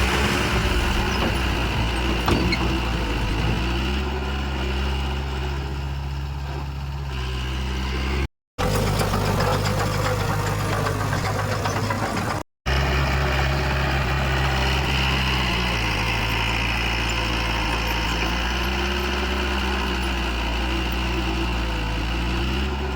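Diesel engine of heavy earthmoving machinery running steadily, its pitch shifting slightly now and then. The sound cuts out completely twice for a split second.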